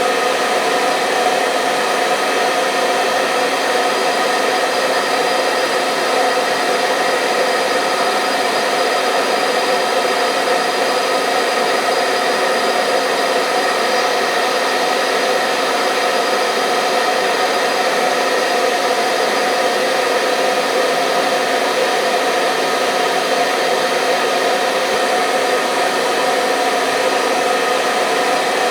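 Hair dryer running continuously: an even, unchanging blowing whir with a few faint steady tones in it.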